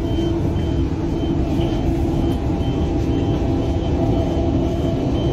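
Stalled MRT train's steady low rumble and hum, with a high electronic alarm beep repeating about twice a second.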